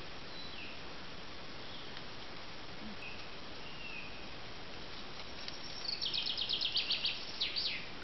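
Small birds chirping in short high notes over a steady background hiss; near the end one gives a loud, rapid trill of about ten notes a second lasting a couple of seconds, ending in two quick falling notes.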